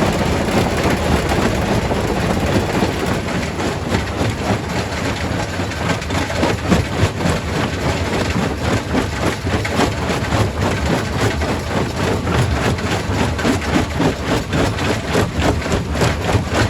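Quarry primary rock crusher running with a heavy machinery drone and a dense clatter of rocks being broken and knocking together, the knocking growing busier in the second half.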